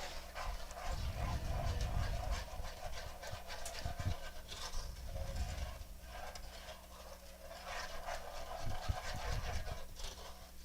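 Spoon stirring a pot of pecan, butter and evaporated-milk icing on the stove, repeated scraping and swishing strokes with a few light knocks against the pot.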